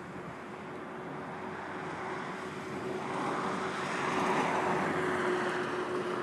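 Street traffic: a vehicle passes, growing louder about three seconds in and fading again near the end, over a steady background hum.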